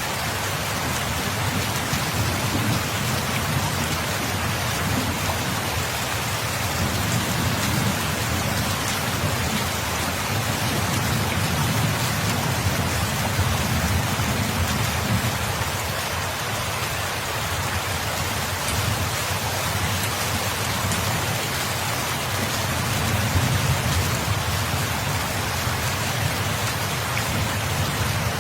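Steady rain falling in a dense, even hiss, with a low rumble underneath that swells and fades several times.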